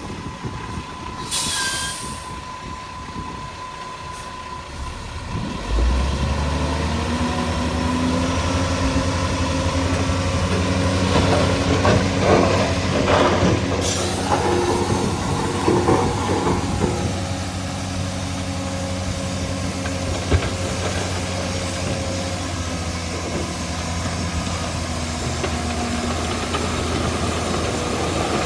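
Heavy diesel engine of earthmoving machinery running. It comes in loud about six seconds in and holds a steady low drone, with a few seconds of rattling and scraping in the middle.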